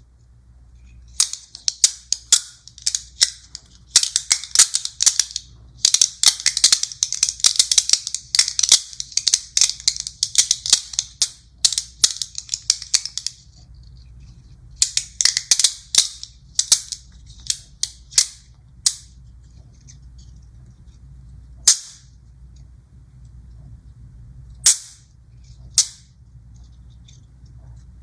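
Small magnetic balls clicking and snapping together: rapid runs of sharp, bright clicks for much of the first half, then scattered single snaps a few seconds apart.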